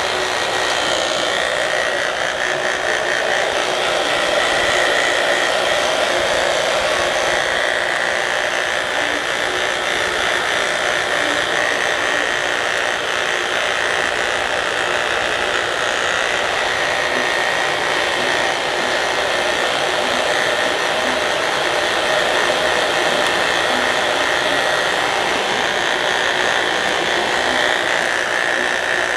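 Hand-held hair dryer running steadily: a loud, even whirr with a constant motor whine.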